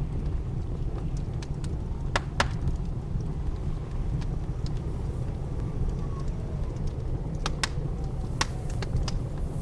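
Wood fire in a fireplace crackling, with scattered sharp pops, over a steady low rumble of blizzard wind.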